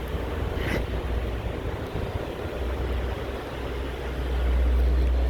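Low, steady rumble of a motor vehicle engine, swelling about four seconds in.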